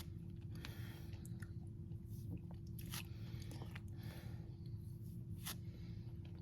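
Food-preparation handling noises: scattered light rustles and clicks, the clearest about three seconds in and again near the end, over a steady low hum.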